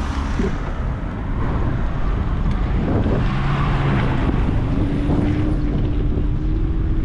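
Wind rushing over the microphone of a moving bicycle camera, mixed with road traffic. A passing vehicle's steady hum comes in from about halfway through.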